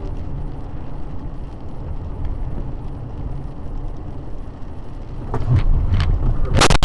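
Low, steady road and engine rumble of a car heard through a dashcam. About five seconds in it grows louder with a few knocks, and near the end comes a loud, sharp crash: a vehicle collision.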